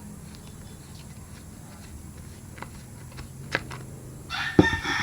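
A few scattered clicks and taps, then near the end a rooster starts crowing, with one sharp knock as it begins.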